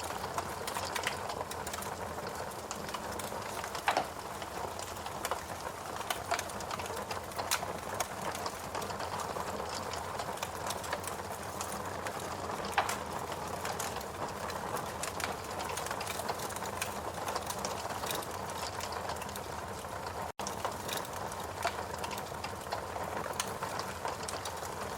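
Fireplace crackling: a steady low hiss with scattered sharp pops and snaps, broken by a momentary dropout about two-thirds of the way through.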